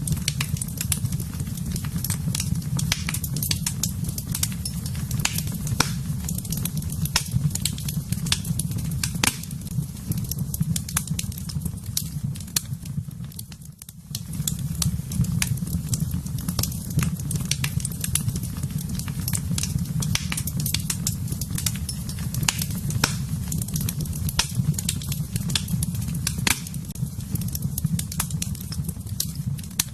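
Wood fire in a fireplace crackling and popping irregularly over a steady low rumble of the flames. The sound briefly dips about halfway through.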